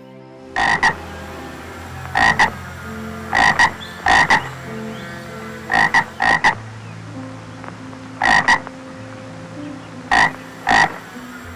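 Frog croaking: short, loud croaks, mostly in quick pairs, repeated every second or two.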